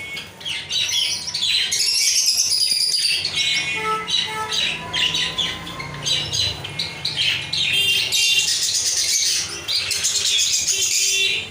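A group of lovebirds chattering, with many overlapping shrill chirps and squawks.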